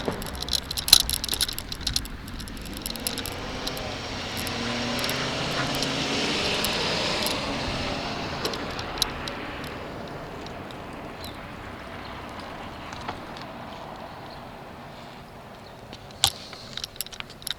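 A motor vehicle passes by, its engine and tyre noise swelling over several seconds, peaking in the middle and slowly fading away. Sharp rattling clicks are heard at the start and again near the end.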